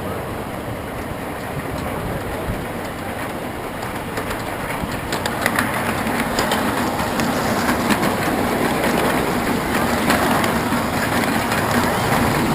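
Steam train running along the track: a steady rumble of wheels and cars that grows louder about halfway through, with clicks of the wheels over the rail joints.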